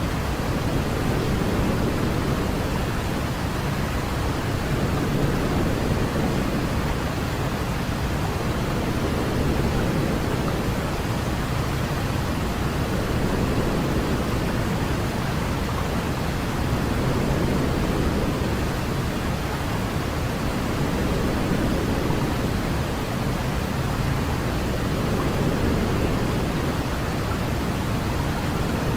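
Continuous white noise for lulling a baby to sleep: an even, steady hiss weighted toward the low end, deeper than pure white noise, with only slight, slow swells in level.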